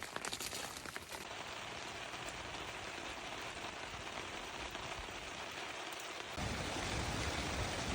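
Steady rain falling, an even hiss with no distinct drops standing out; about six seconds in it grows slightly louder and fuller.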